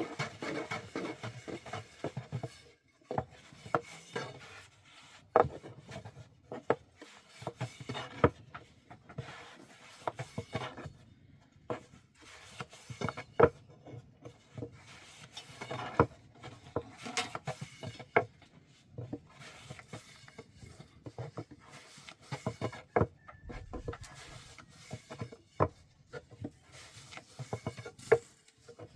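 Rubbing and scraping on wood, broken by irregular sharp knocks throughout.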